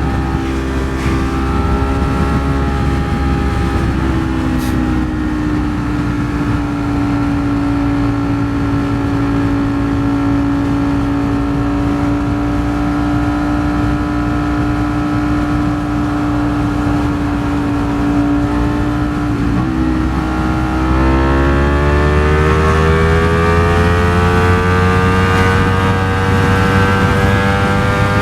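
Ducati Streetfighter V4 S's 1103 cc V4 engine running at a steady cruise under heavy wind rush. About twenty seconds in there is a brief break in the engine note, and then its pitch rises steadily as the bike accelerates.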